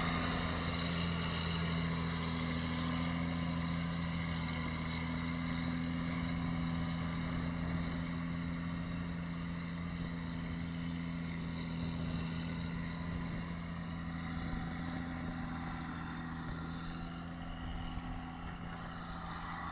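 Tractor diesel engine running at a steady speed, slowly growing fainter.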